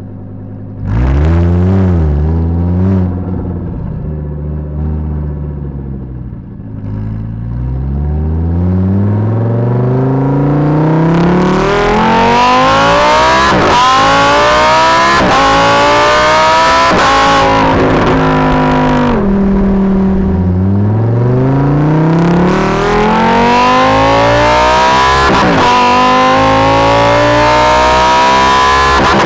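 Lamborghini Huracan EVO's naturally aspirated 5.2-litre V10, recorded right at the exhaust and very loud. It comes in suddenly about a second in with a short rise and fall in revs, then settles low. It then pulls hard in long rising sweeps, with the pitch dropping sharply at each of several upshifts.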